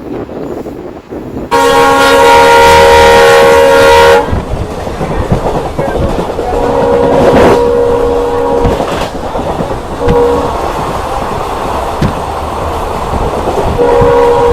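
Diesel locomotive horn sounding over the rumble and clatter of a moving train: one loud blast about a second and a half in, lasting over two seconds, a second blast a few seconds later, a brief toot around ten seconds, and another blast starting near the end.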